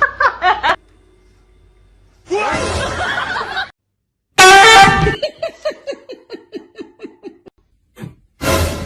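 Several short clips cut together: a loud pitched cry or honk about halfway through, followed by a person laughing in a quick run of short 'ha' sounds that fall in pitch and fade out.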